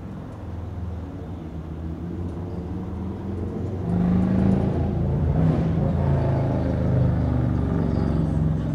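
Car engine idling, a steady low hum that grows louder about four seconds in.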